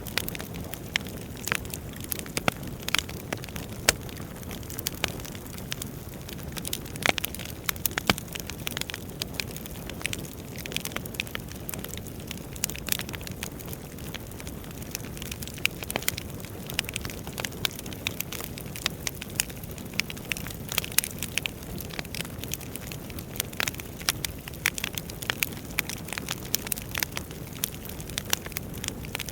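Wood fire burning in a fireplace, with many sharp crackles and pops over a steady low rumble of the flames.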